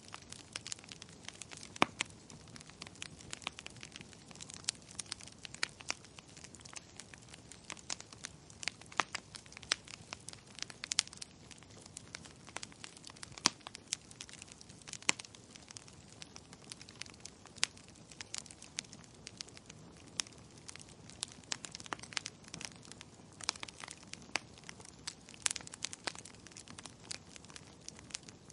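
Wood fire crackling: frequent sharp, irregular pops and snaps over a low, steady hiss of burning.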